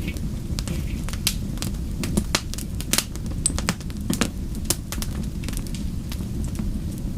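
Wood fire burning with a steady low roar of flame and irregular sharp crackles and pops from the burning logs.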